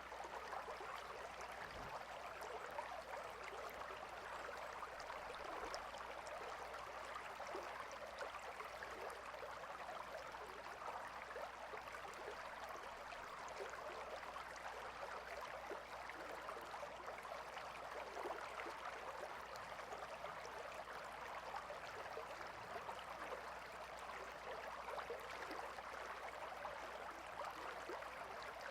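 Gentle river flowing: a steady rush of water with fine, constant bubbling.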